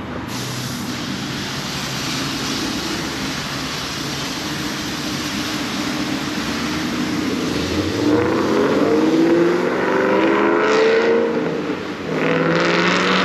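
Ford Mustang car engines running steadily, then revving up with a rising pitch about eight seconds in, easing off briefly and rising again near the end.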